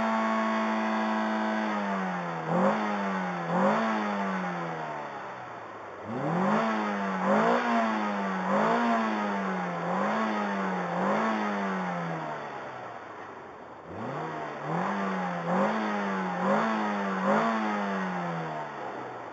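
1994 Acura Integra's four-cylinder engine being revved: held high at first, then blipped in quick rises and falls about once a second, in three runs with the revs sagging between them. It is burning off a Seafoam fuel-system cleaner treatment, which pours white smoke from the exhaust.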